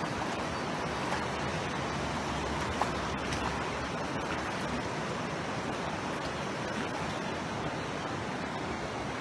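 Steady rushing of a stream tumbling over rocks and small cascades, with a couple of faint clicks about three seconds in.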